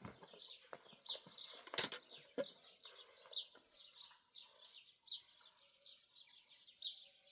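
Small birds chirping rapidly and continuously, many short high chirps overlapping. A few sharp knocks sound in the first couple of seconds.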